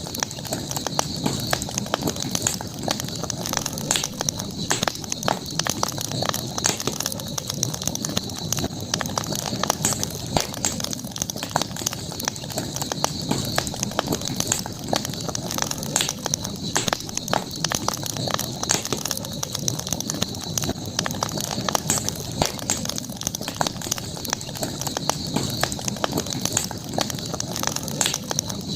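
Campfire crackling, with frequent small sharp pops over a steady high-pitched hum.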